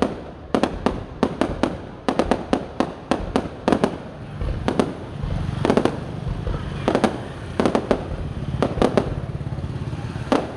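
Fireworks going off in a rapid irregular series of sharp bangs, several a second, over a continuous low rumble.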